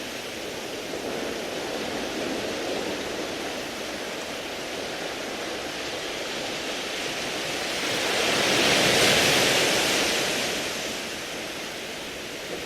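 Sea waves washing over a beach of round pebbles: a steady wash, with one wave swelling louder and hissing brighter about two-thirds of the way through, then easing back.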